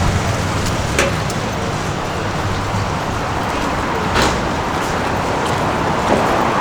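City street ambience: a steady wash of traffic noise, with a sharp click about a second in and another about four seconds in.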